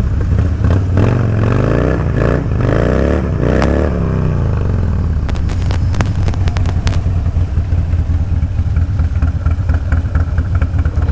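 Motorcycle engine running steadily, with a second engine's pitch sweeping up and down between about one and four seconds in, and a few sharp clicks around the middle.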